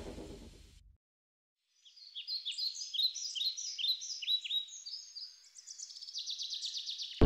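A music sting fades out over the first second. After a short silence, birds start chirping with many quick, high, downward-sweeping calls that overlap and quicken into a fast trill near the end.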